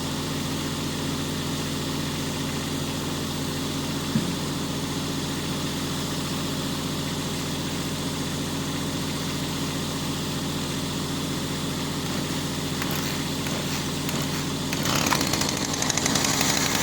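A motor running steadily with a low, even hum, with one sharp click about four seconds in. About fifteen seconds in, a louder, harsher high-pitched hiss joins it.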